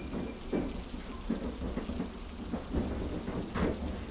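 Heavy rain falling steadily over a low rumble from a train, with soft irregular knocks of wheels passing over rail joints.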